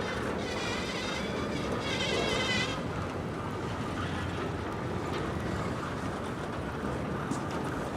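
A train running by with a steady rumble and wind on the microphone. Two brief high-pitched squeals come about half a second and two seconds in.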